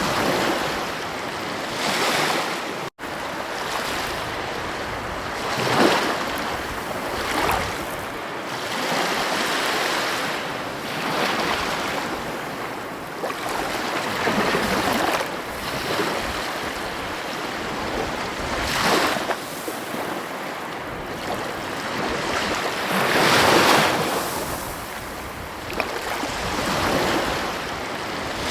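Ocean waves breaking and washing up a beach, the surf swelling and falling back every few seconds. There is a momentary dropout about three seconds in.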